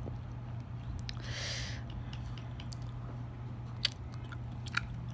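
A person chewing a mouthful of chewy rice cakes over a steady low hum, with a brief hiss about a second and a half in and two sharp clicks near the end.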